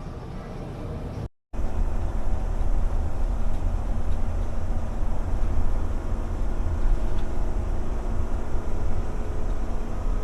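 Steady low rumble of a vehicle driving down the road, engine and road noise. It cuts out briefly about a second and a half in, then comes back louder.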